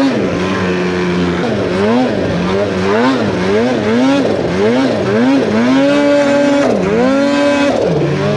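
Turbocharged two-stroke snowmobile engine (2023 Polaris Khaos Boost with an SLP Competition Can exhaust) revving up and down over and over, about twice a second, as the throttle is worked through deep snow. Near the end the revs are held up twice, then drop back.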